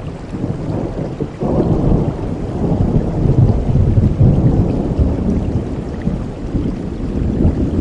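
Heavy rain falling with a low rolling thunder rumble that builds about a second and a half in, peaks midway and slowly fades.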